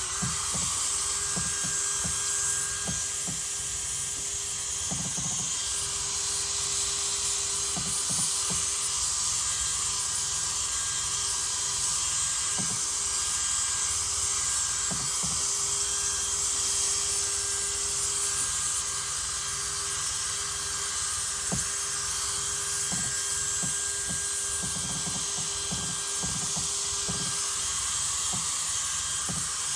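Power drill with a buffing pad running steadily, a constant motor whine with a hiss of the pad working compound against a plastic headlight lens.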